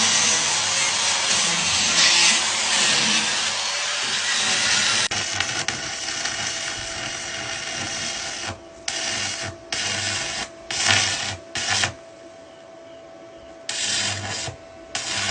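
Welding on metal: a continuous harsh crackle for about five seconds, then a steady whine comes in and the crackle breaks into a string of short bursts, a second or less each, as the arc is struck and stopped again and again.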